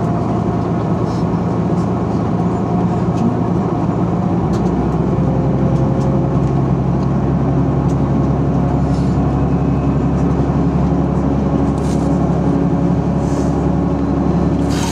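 Diesel railcar running, heard from inside the cabin: a steady engine hum with a few steady tones, the low hum growing stronger about four and a half seconds in.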